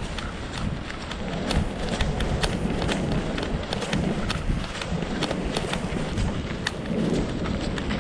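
Footsteps walking at a brisk pace, a few crunching steps a second, over a steady low rumble of wind.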